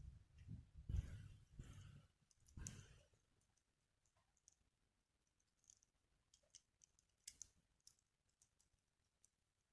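Wood bonfire burning faintly, with a low rushing of flames in the first three seconds, then only scattered small crackles and pops.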